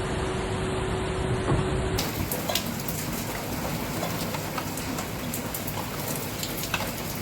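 Rain falling, with many sharp drops ticking on a nearby hard surface from about two seconds in. Before that, a steadier rushing noise with a faint steady hum that cuts off abruptly.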